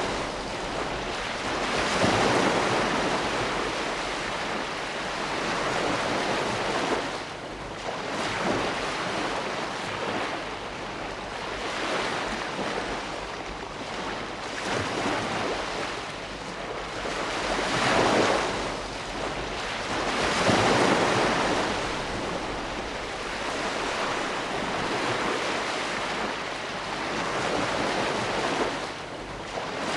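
Ocean waves breaking and washing on a shore, a continuous rushing surf that swells and ebbs every few seconds, with the strongest surges about two seconds in and around eighteen and twenty-one seconds in.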